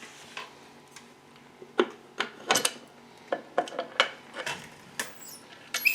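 Metal tools and engine parts clinking and clattering on a workbench as they are handled, in a dozen or so irregular sharp strokes, with a brighter ringing metallic clink near the end.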